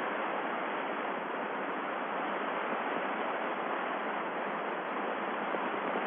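Steady hiss of an open air-to-ground radio channel, a thin even static with no voice on it.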